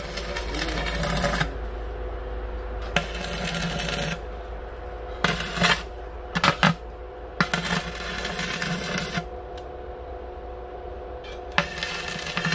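Electric arc welding in five short runs of crackling hiss, each one to two seconds long, with a steady electrical hum underneath and a few sharp clicks near the middle: tack welds being laid on steel.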